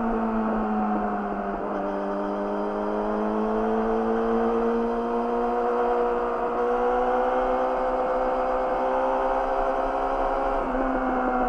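Yamaha YZF-R6's inline-four engine running through an Akrapovic slip-on exhaust under steady riding. The pitch dips a little at first, rises slowly as the bike gains speed, then steps up near the end.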